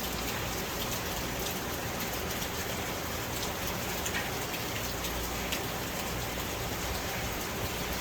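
Steady hiss with scattered faint ticks, like rain falling on a surface.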